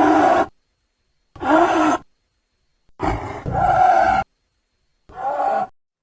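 Designed creature sound effects for a giant prehistoric snake (Titanoboa): four short, separate roaring calls, each cut off cleanly by silence. The fourth call, about three seconds in, is the longest and comes in two parts.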